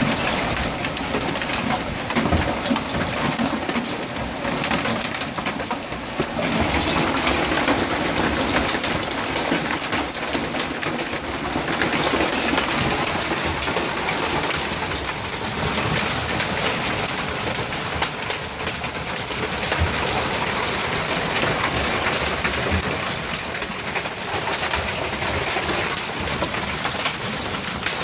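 Hail pelting down hard: a dense, steady clatter of countless small impacts with no let-up.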